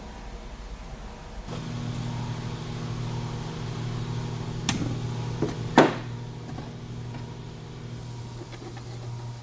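A motor starts about a second and a half in and runs with a steady hum. Two sharp clicks come near the middle, the second one louder.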